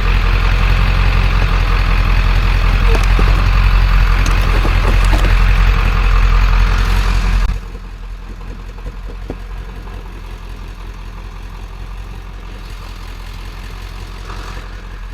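Vehicle engine running steadily with a loud low rumble. About halfway through it drops abruptly to a much quieter steady hum.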